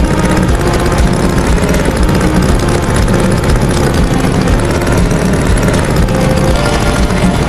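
A tractor engine running steadily and loudly at a low, even rumble.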